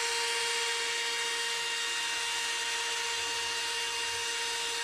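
Electric drill running at a steady speed with a constant whine, boring a bolt hole through the steel of an air-bag suspension mount.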